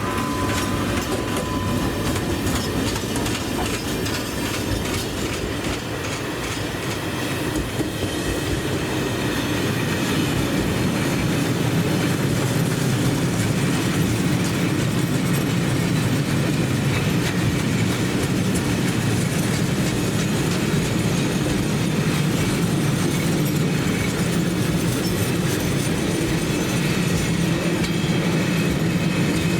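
Train rolling past on the rails, a continuous steady sound that grows somewhat louder about ten seconds in.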